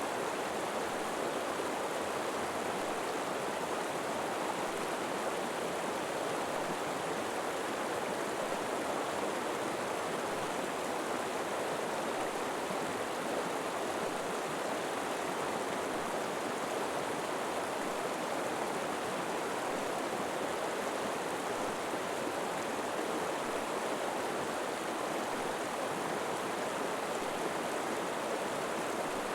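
River water flowing and rushing steadily over rocks, an even unbroken wash of noise.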